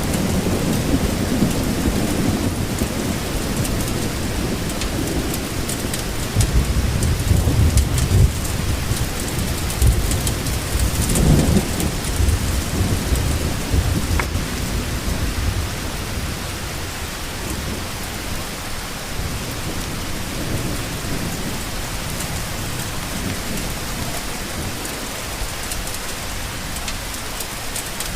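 Steady rain falling, with a low rumble of thunder swelling and rolling away in the first half.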